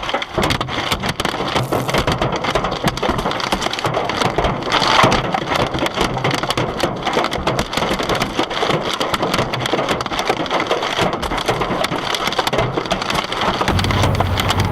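Heavy hail pelting hard surfaces, a dense, irregular clatter of hailstone impacts over a rushing haze. Near the end it gives way to a steadier low rumble.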